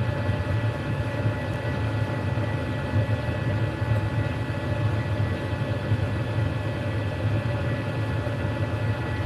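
Steady low mechanical drone with a few faint, steady high tones over it, unchanging throughout.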